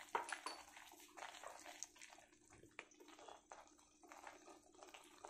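Faint, irregular crackling and popping of ghee bubbling around a thick banana paste in a kadai, with the soft sound of a silicone spatula stirring through it.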